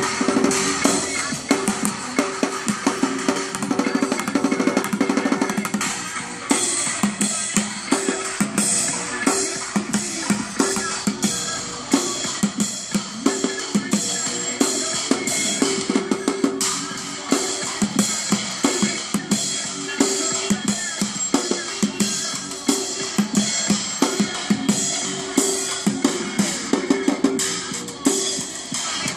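A bucket drummer playing a steady, driving rhythm on plastic buckets, barrels and drums, with sharp rim and shell hits over deeper booming strokes.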